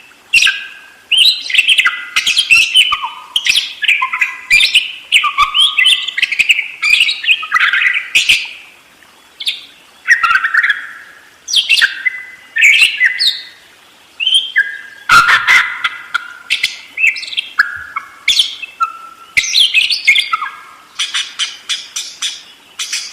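Budgerigar singing a long, busy warbling chatter of rapid chirps and squawky notes in phrases with brief pauses. Near the end a fast, even ticking starts.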